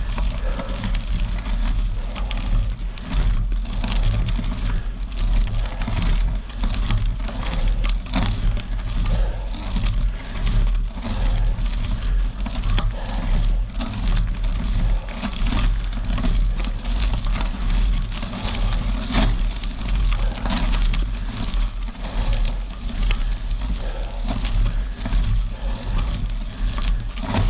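Bicycle tyres rolling over gravel, a continuous crackling crunch, with wind buffeting the microphone in a constant low rumble.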